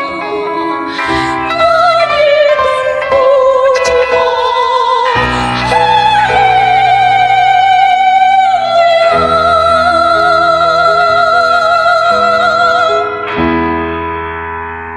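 Church choir singing in full voice, the melody sung with vibrato over sustained low parts. About nine seconds in the choir settles on a long held chord, which fades out near the end.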